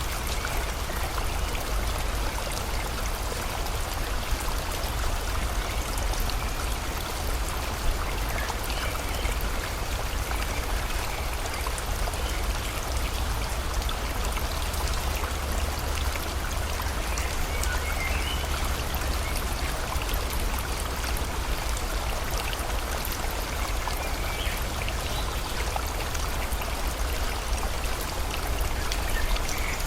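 Steady rain mixed with a flowing river, an even rushing hiss with a low rumble underneath. Faint bird chirps come through now and then.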